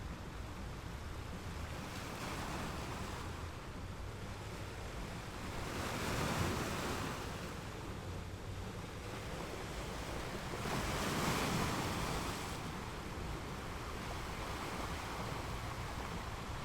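Ocean waves breaking and washing in, with two louder swells of surf about six and eleven seconds in, over a steady rush of wind on the microphone.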